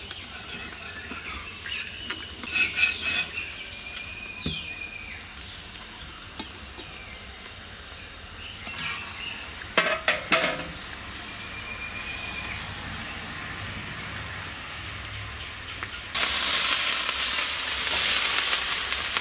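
Metal utensils clinking and scraping against a cooking pan a few times. About sixteen seconds in, food goes into the hot oil and a loud, steady sizzle starts suddenly.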